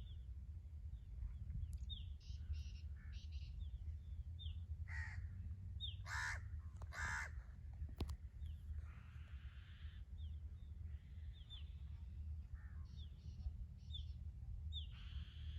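Birds calling: short high chirps repeated throughout, with a few louder, longer calls near the middle, over a steady low rumble.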